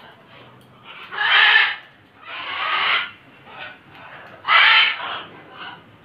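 Caged aviary birds giving a run of harsh, raspy squawks. Three loud calls, each about half a second long, come about a second in, midway through and near the end, with softer squawks between them.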